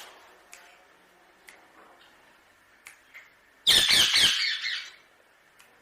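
Indian ringneck parakeet giving one loud, harsh squawk lasting about a second, a little past the middle. A few faint clicks come before it.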